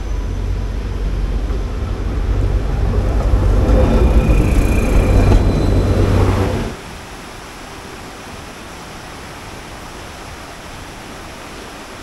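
A Diakopto–Kalavryta rack-railway diesel railcar approaching and passing close, a deep engine rumble that grows louder to a peak and cuts off sharply about seven seconds in. After that there is a steadier, quieter rush of water from the river in the gorge.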